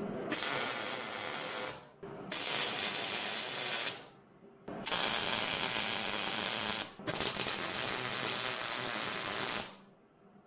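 Welder arcing on steel tubing in four bursts of crackling sizzle, each one and a half to two and a half seconds long, separated by short pauses: tack welds joining the frame.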